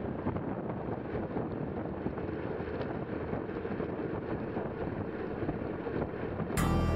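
Wind rushing steadily over an action camera's microphone while riding, a low even rumble with no clear tones. Loud music starts about six and a half seconds in.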